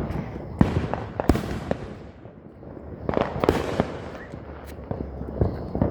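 Consumer fireworks going off in a series of sharp bangs and crackles, with a lull about two seconds in and a dense cluster of bangs around three and a half seconds in.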